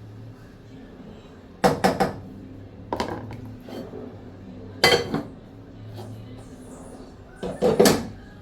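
Kitchen clatter: utensils knocking and clinking against cookware in four short clusters of sharp knocks, over a steady low hum.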